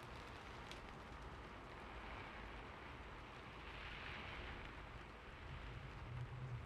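Steady ambient rain, an even hiss of falling rain, swelling a little midway. A low steady rumble joins near the end.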